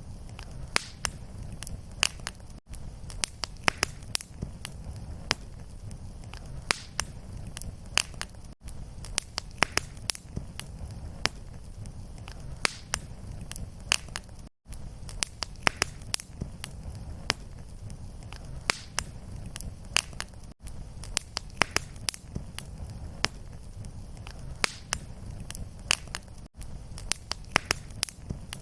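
Wood fire burning in a fireplace: a steady low rumble of flames with dense, irregular sharp crackles and pops throughout. The sound briefly cuts out about every six seconds.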